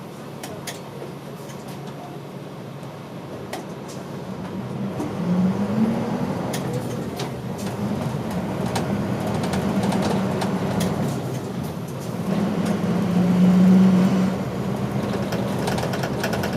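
A route bus's diesel engine running, heard from inside the cabin. Its note rises as it pulls away about five seconds in and swells louder again near the end, with scattered light clicks and rattles.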